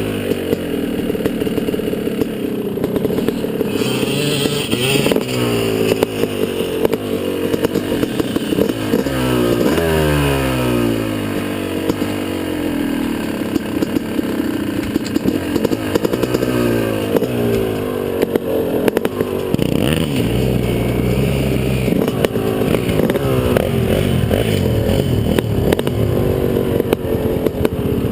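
Motocross motorcycle engine under way, its revs climbing and dropping again and again as it accelerates and shifts, with scattered clatter and knocks.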